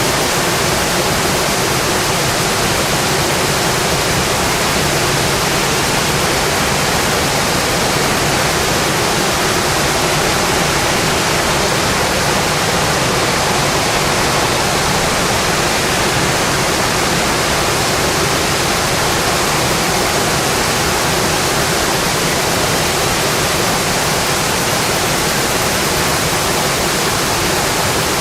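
Steady heavy rain drumming on a metal roof: a dense, even hiss that does not change.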